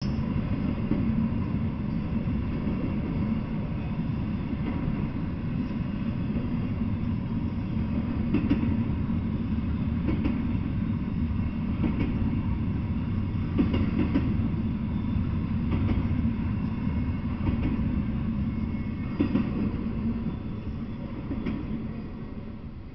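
Double-stack intermodal freight train rolling past: a steady low rumble of wheels on rail with a sharp click every second or two from the wheels crossing rail joints. The sound fades near the end as the last car goes by.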